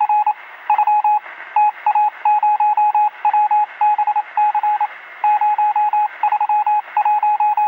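Emergency alert attention tone: a loud, high beep pulsing on and off in rapid groups with short gaps, sounding thin as if through a phone or radio speaker. It signals a severe weather warning.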